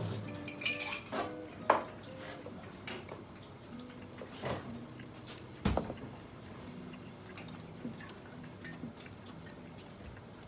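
Dishes and cutlery clinking and knocking now and then, with a sharper knock about two seconds in and another near six seconds, over faint background music.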